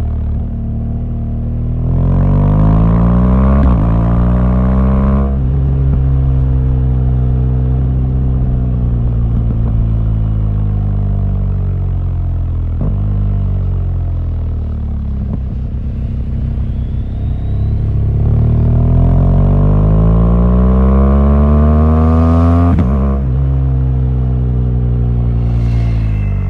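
BMW R1200GS boxer-twin motorcycle engine pulling hard with its pitch rising, then dropping abruptly about five seconds in at an upshift. It runs steadily and eases off, then climbs again for several seconds and shifts up once more near the end.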